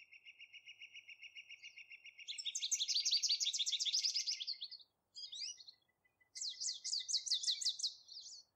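Recorded bird trills: runs of quick, high repeated notes. The trills are faint at first, then come on louder about two seconds in and again about six seconds in, with a short call between.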